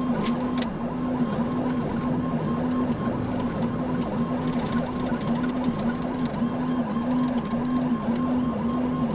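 Patrol car's electronic siren sounding continuously, switching rapidly up and down in pitch about twice a second, over steady road and engine noise.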